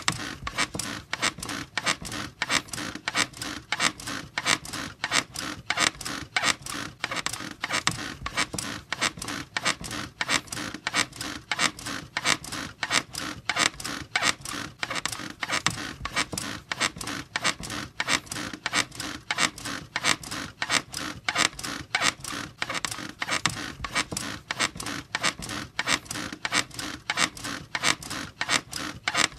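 Bed squeaking over and over in a fast, even rhythm, the repeated creak of a bed being bounced on.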